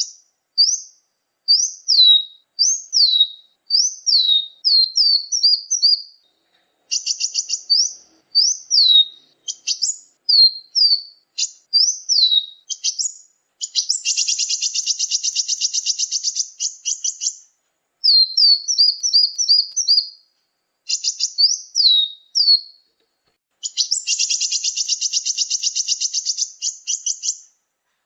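Bird-lure recording of small songbird calls: series of high, sharp down-slurred chirps, broken twice by long rapid buzzy trills, with no background noise.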